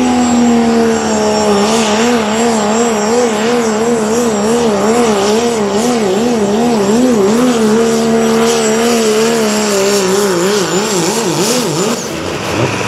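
Pulling tractor or truck engine running at full throttle under load down the pulling track, its pitch wavering up and down about two to three times a second, with a thin high whine over it. Near the end the engine note drops.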